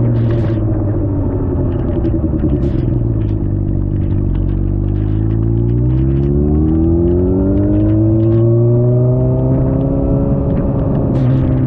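Suzuki GSX-R600's inline-four engine heard on board: the engine note falls for about four seconds as the bike slows, then rises smoothly as it accelerates and holds steady near the end. Short crackling ticks are scattered over it.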